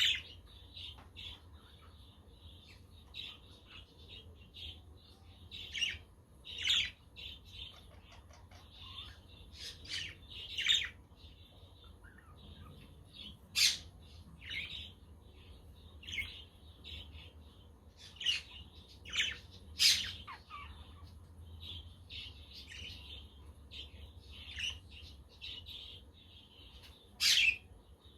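A flock of budgerigars chattering and chirping continuously, with several louder, sharp squawks scattered through, the loudest about halfway through and near the end.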